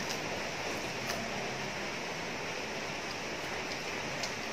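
A few faint crunches of someone chewing crispy-battered fried banana, heard as soft clicks at the start, about a second in and near the end, over a steady background hiss.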